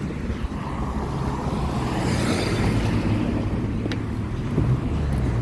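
Road traffic: a vehicle passing close by, its tyre noise swelling and fading about two to three seconds in, over a steady low rumble.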